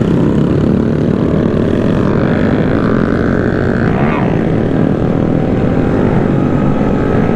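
A steady, loud rush of wind noise and engine drone while riding with a group of small motorcycles, with a brief rise and fall in engine pitch about four seconds in.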